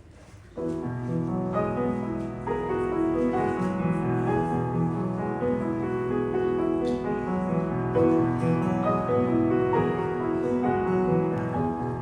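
Piano playing the gentle introduction to a worship song, starting suddenly about half a second in with sustained chords.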